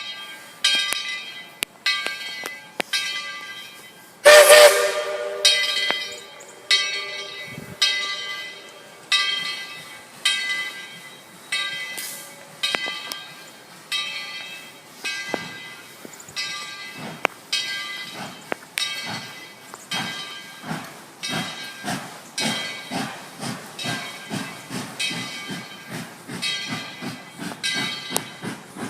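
Steam locomotive getting under way: its bell rings steadily about once a second, and a short whistle blast sounds about four seconds in. From about halfway, the exhaust chuffs begin and quicken to about three a second as the engine picks up speed.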